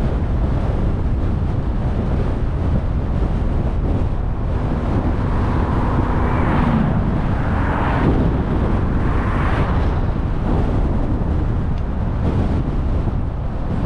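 Steady road and wind noise of a car being driven, with a few louder swells of passing noise between about five and ten seconds in.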